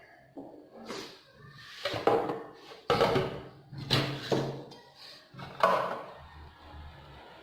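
A series of about six sharp knocks and clatters, the sound of hard objects being handled and set down.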